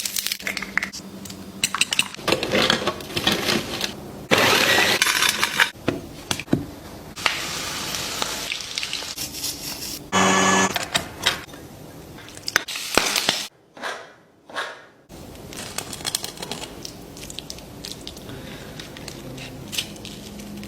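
Kitchen sounds from making chicken schnitzel, in short clips cut one after another: crackling, clicks and the clatter of dishes, with a short pitched sound about halfway and a brief near-silent gap a little later.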